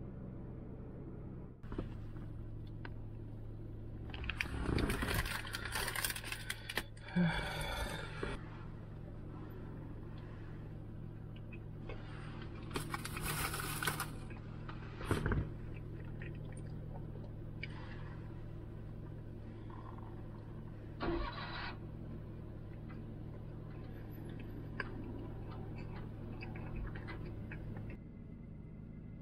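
Car engine idling, heard from inside the cabin as a steady low hum, with a few bursts of rustling and handling noise and a sharp click over it.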